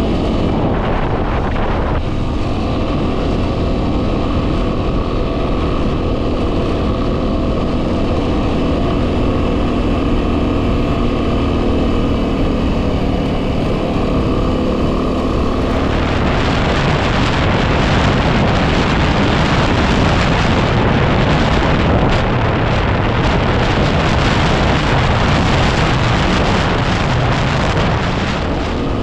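Yamaha WR250R's single-cylinder 250 cc engine running at a steady cruising speed, with wind buffeting the microphone. From about halfway through, the wind noise grows much heavier and nearly drowns out the engine.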